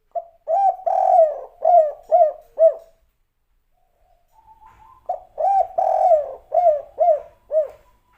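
Spotted dove (derkuku) singing its 'kuk 3' song twice. Each phrase is a short coo, a longer drawn coo, then three short clipped coos, with a pause of about two seconds between phrases.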